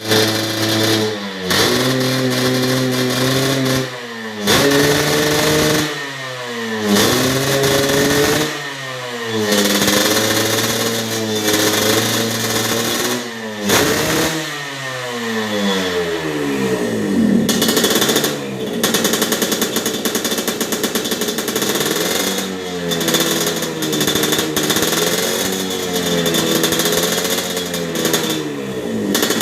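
Yamaha RX-King two-stroke single-cylinder engine through an aftermarket racing exhaust, revved about five times, each rev held high for a second or more and then let fall, before it runs lower with gentler blips.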